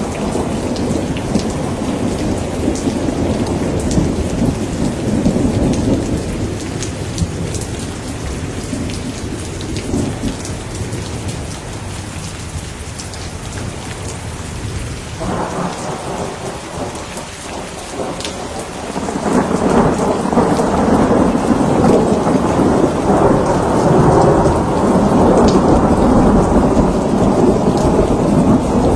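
Thunderstorm: steady heavy rain with low rolling thunder, the rumble easing in the middle and building again about two-thirds of the way in.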